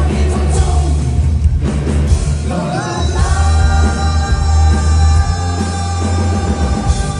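Rock song with a singer over band backing and heavy bass: about three seconds in the voice slides up into one long held high note that lasts to the end.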